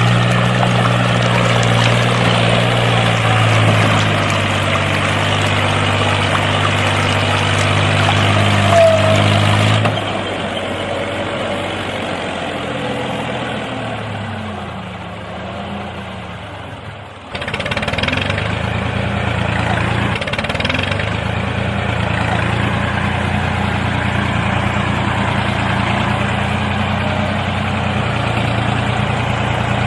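Small electric motor of a homemade toy tractor with water pumps, running with a steady hum. About a third of the way in it slows, its pitch sinking over several seconds almost to a stop. Just past halfway it starts again suddenly and runs steadily.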